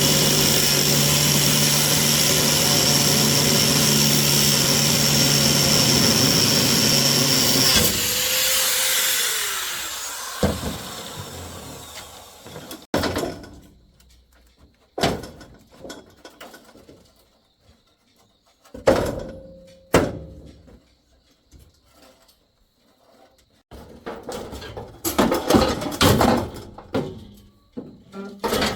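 A power tool runs steadily, is switched off about eight seconds in and spins down with a falling whine. Scattered knocks and clinks follow.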